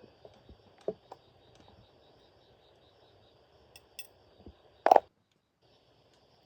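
Insects chirping in a steady pulsing rhythm, with a few light clicks and a single short, loud knock about five seconds in.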